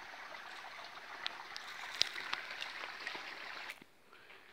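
Mountain stream rushing steadily, with a few sharp clicks over it, cutting off suddenly near the end.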